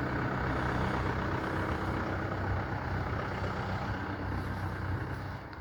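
Opel Insignia 2.0 CDTi four-cylinder turbodiesel running steadily just after a cold start at about −5 °C.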